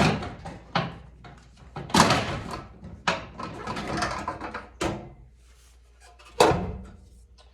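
An oil boiler's cover being handled and taken off: a string of metal clanks and rattles, with the loudest knocks at the start, about two seconds in and about six seconds in.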